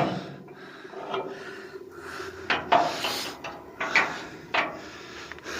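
Scattered knocks and scrapes: several short, sharp sounds at irregular intervals of about a second, over a faint steady background.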